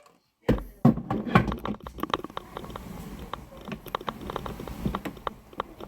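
A dense run of small clicks, knocks and rattles over a low rumble, starting after a brief silence about half a second in.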